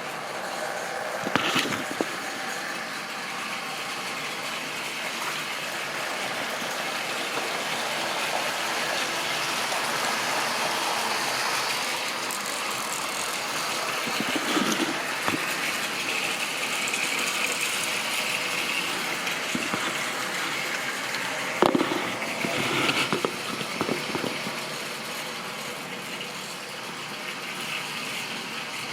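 Model train running on the layout: a steady whirring rattle of motor and wheels on the track that grows louder and eases off, with a few sharp clicks and clatters along the way.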